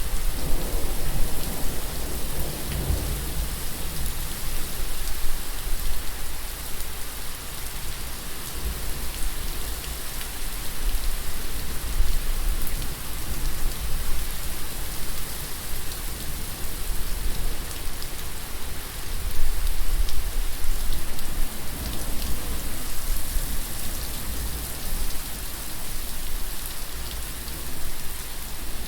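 Steady heavy rain falling on a surface, with low rumbles of thunder in the first few seconds and again about two-thirds of the way through.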